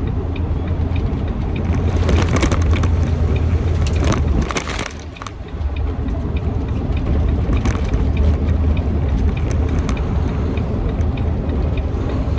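Steady low drone of a semi-truck driving on the highway, heard inside the cab, with a patch of crackling clicks from about two to five seconds in and faint regular ticking.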